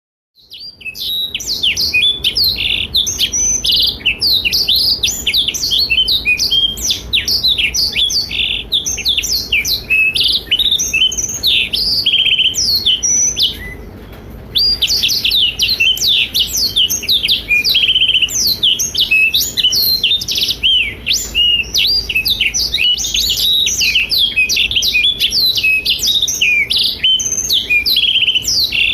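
Black-throated canary (blackthroat) singing a long, vigorous song of fast twittering chirps and quick rising and falling notes, broken only by a short pause about 14 seconds in.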